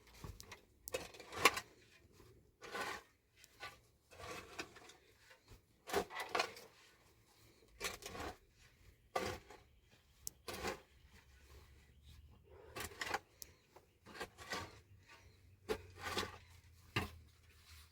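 Irregular light knocks, clicks and scraping sounds, as of objects being handled and set down, spaced a second or two apart.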